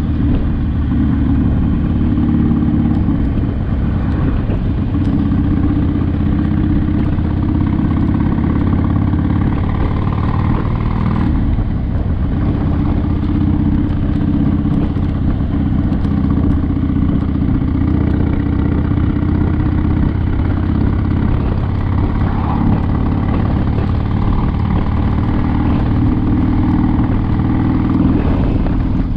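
Harley-Davidson Sportster's V-twin engine running steadily under way, with a brief change in the engine note about eleven seconds in.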